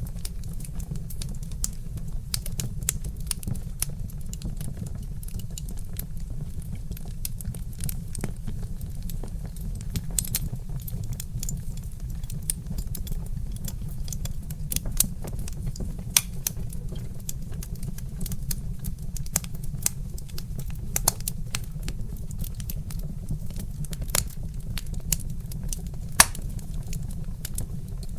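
Wood fire crackling, with dense, irregular small pops and a few louder snaps, over a steady low rumble.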